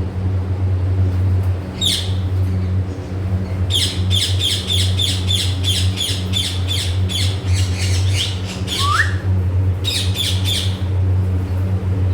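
Parrots squawking: a rapid run of harsh repeated squawks, about four a second, lasting some four seconds, then a single rising whistle and another short run of squawks. A steady low hum runs underneath.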